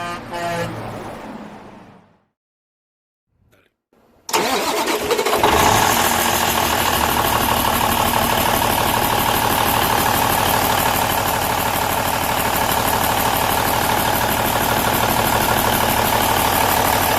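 Cummins N14 Celect Plus inline-six diesel engine starting suddenly about four seconds in, then settling into a steady idle with an even pulse. Before it, a brief sound fades out and there are about two seconds of silence.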